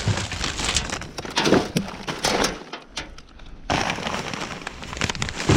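Rummaging through bagged household rubbish: plastic crinkling and crushing, with items clicking and knocking together, in two spells with a short lull about three seconds in.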